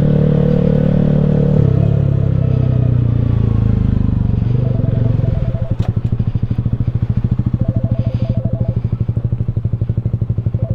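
Honda CB125R single-cylinder engine through a LeoVince LV10 exhaust, running on a closed throttle and dropping, then settling about five seconds in to an even, pulsing idle.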